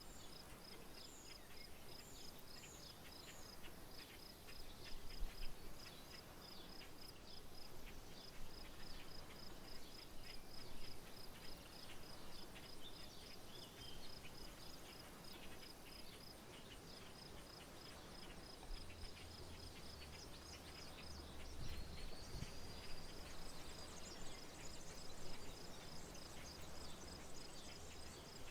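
An insect chirping steadily in an even high pulse a few times a second, with a few short high bird chirps near the start. A faint low rumble comes in about two-thirds of the way through.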